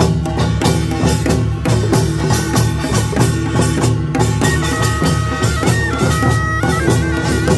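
Korean nongak farmers' band playing: dense, fast clanging and drumming of gongs and drums. About halfway in, a shrill reed melody enters in held, stepping notes, typical of the taepyeongso.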